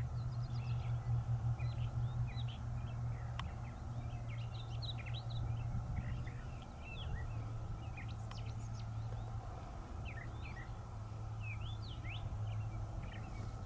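Small songbirds chirping in a quick, scattered series of short sweeping notes over a steady low rumble.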